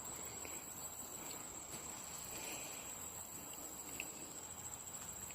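Faint, steady high-pitched insect trill, like crickets, with a few faint ticks.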